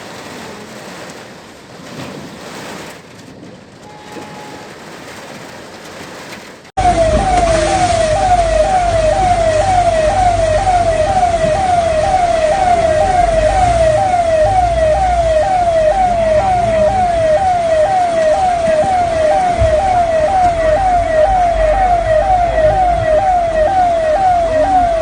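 An emergency-vehicle siren in a fast yelp, each sweep rising then dropping back, about two a second, over a low rumble. It cuts in abruptly about seven seconds in, after a stretch of softer steady noise.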